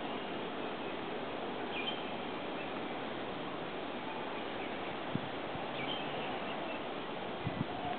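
Steady background hiss with a few faint, short chirps and two or three soft taps.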